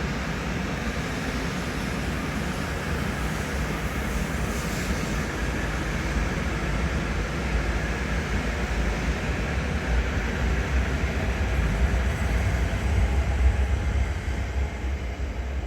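Shinkansen train pulling out of the station: a steady rumble of running gear and wheels on the rails that swells about twelve seconds in, then falls away near the end.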